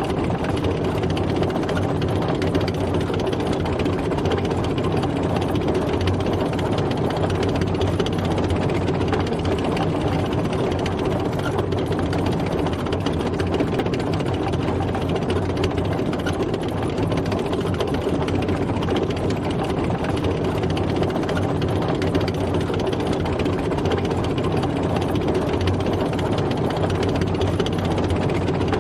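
Tank on the move, its heavy engine running steadily at an even pitch with no change in speed.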